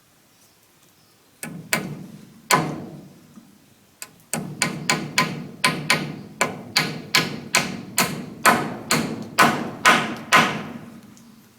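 Hammering on wood, each blow ringing briefly: a few strikes, a short pause, then a steady run of about three blows a second that slows slightly toward the end.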